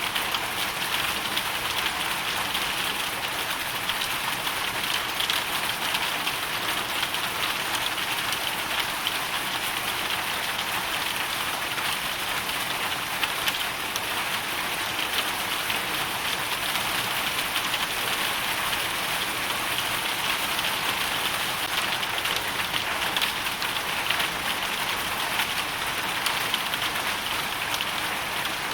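Hailstorm: hail and rain falling steadily on surfaces, a dense, even patter of countless small impacts.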